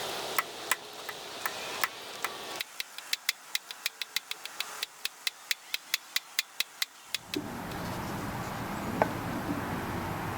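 A run of sharp, evenly spaced clicks, about three or four a second, from a hand tool or part being worked, stopping about seven seconds in; after that a steady background noise with one more click near the end.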